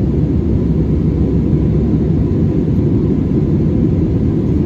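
Steady cabin noise inside an Airbus A320-200 in flight: an even, low rumble of engines and airflow, with a faint steady whine above it.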